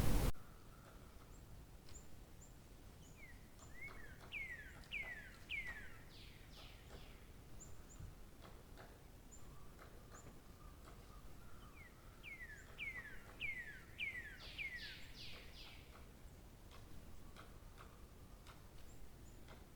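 A songbird singing two phrases, each a quick run of about five whistled notes sliding downward, followed by a few higher notes. Faint high chips from another bird sound between the phrases. A loud hiss cuts off right at the start.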